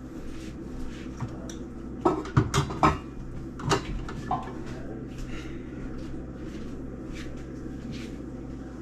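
Dishes and kitchen cupboards being handled: a cluster of sharp knocks and clinks about two to three seconds in and another near four seconds, over a steady low hum.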